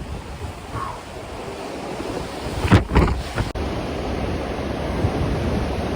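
Hurricane-force wind gusting hard across the microphone, a heavy low buffeting rush. A stronger blast hits just under three seconds in, then the sound drops out for an instant and continues as a steadier, louder rush.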